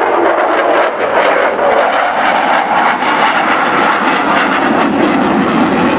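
A jet aircraft's engines roaring loudly in flight during an air display, the pitch of the roar sinking slowly as it passes.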